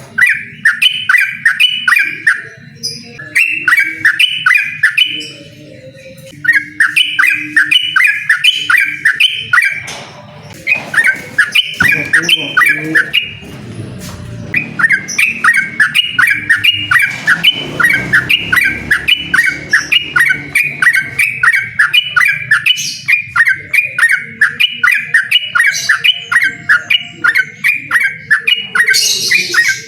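Yellow-vented bulbul singing its long, fast 'ropel' song: quick runs of repeated bubbling notes in long phrases, broken by a few short pauses.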